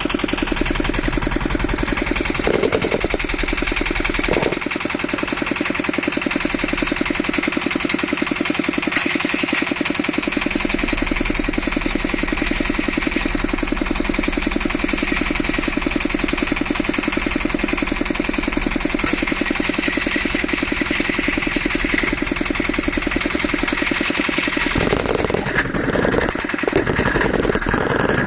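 Vehicle engine idling steadily with a high whistle in its running, a new whistle that has come on together with a dragging clutch. The running changes briefly near the end.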